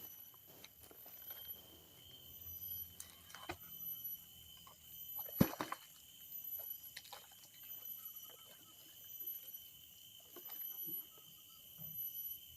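Faint scattered taps and scrapes, with one sharper knock about five and a half seconds in, over a steady high-pitched tone.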